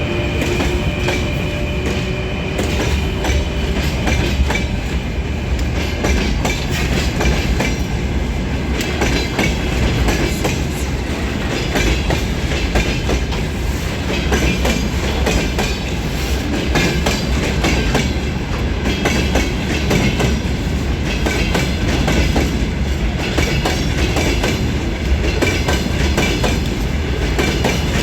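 Freight train departing under a 2ES5K electric locomotive, its wagons rolling past with a steady low rumble and dense clacking of wheels over rail joints. A steady whine fades out in the first few seconds.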